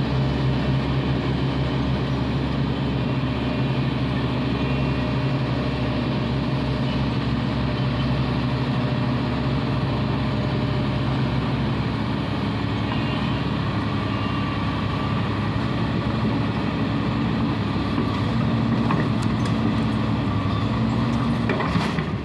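Large diesel engine of heavy road-construction machinery running steadily under work, its pitch shifting slightly, with a few light clicks near the end.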